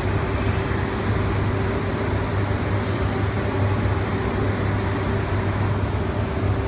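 E3-series Shinkansen trainset standing at a platform with its onboard equipment running: a steady, unchanging hum with a low drone and a constant mid-pitched tone above it.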